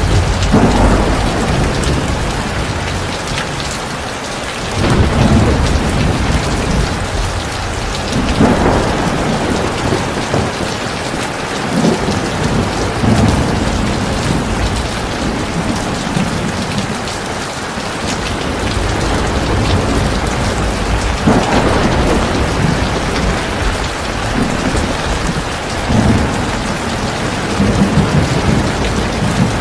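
Heavy rain pouring steadily, with low rumbles of thunder swelling up every few seconds.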